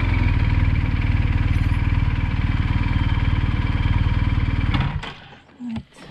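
Motorcycle engine idling with an even pulse, then switched off about five seconds in, followed by a couple of light clicks.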